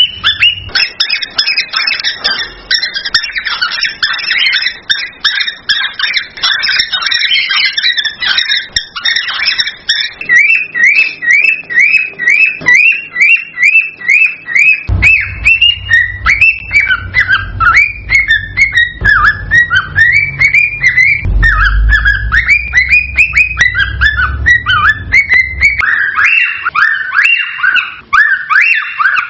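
Male cockatiel's excited breeding song, with fast whistled chirps and chatter, then a run of short repeated whistles about four a second, then longer rising and falling whistle notes. A low hum sits underneath in the middle part.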